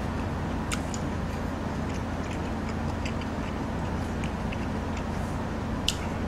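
Close-miked chewing of a mouthful of rice and kimchi stew: soft, irregular wet clicks and smacks of the mouth over a steady low hum, with one sharper click about six seconds in.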